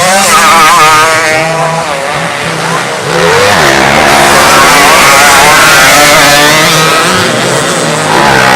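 Several racing underbone motorcycles running at high revs, their engine pitch rising and falling with throttle and gear changes as they race. It gets louder and fuller from about three seconds in.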